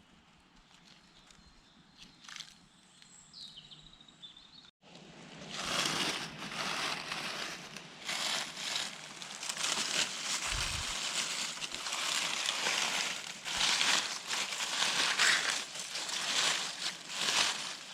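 Rustling and crunching of forest undergrowth and leaf litter, dense and crackly, starting abruptly about five seconds in after a quiet stretch with a faint bird call.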